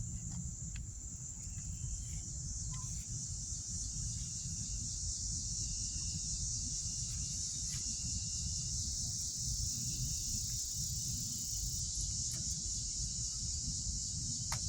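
Steady chorus of crickets, an unbroken high-pitched trill, over a low rumble.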